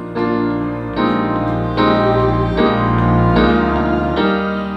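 Piano playing sustained chords over a low bass note, the chord changing about every second: an instrumental passage with no singing.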